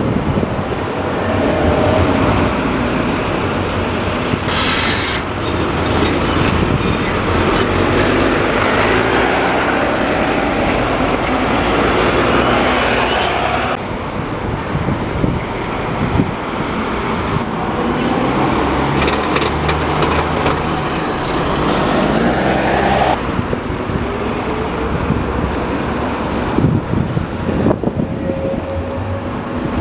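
Rail vehicle running, with a short hiss of air about five seconds in; the sound changes abruptly twice.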